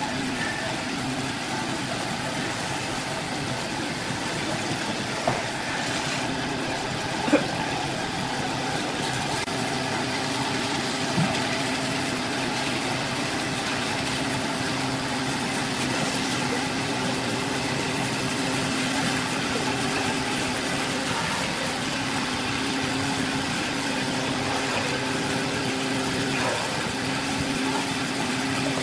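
Wood lathe running steadily with a constant motor hum, with a few short knocks about five, seven and eleven seconds in.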